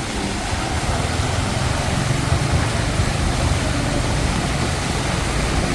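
Heavy rain falling, a steady hiss, over a low, steady rumble of vehicle engines from street traffic.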